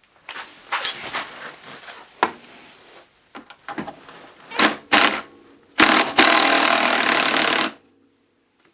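Workshop tool sounds: short scrapes and knocks of tools and parts being handled, then a loud, steady rushing noise for about two seconds that cuts off suddenly near the end.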